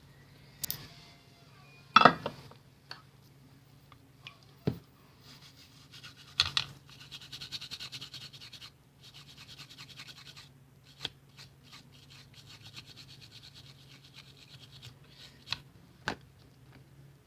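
Sharp knocks and clicks of small plastic parts being handled on a bench while a computer mouse is repaired, the loudest about two seconds in. Between them come long stretches of fine, rapid scratching and ticking.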